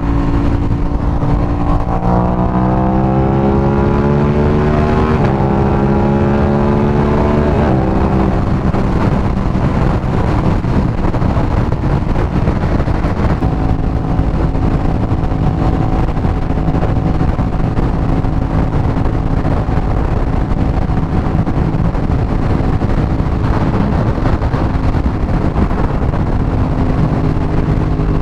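Aprilia RS 660's parallel-twin engine accelerating, its note rising through two upshifts about five and seven and a half seconds in, then holding a steady cruise over a constant rush of road and wind noise.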